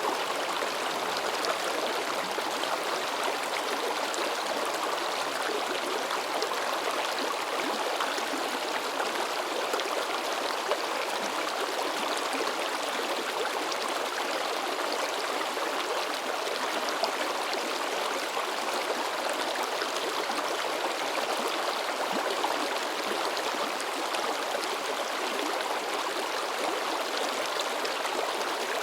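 Mountain stream running over rocks: a steady, even splashing and babbling rush of water.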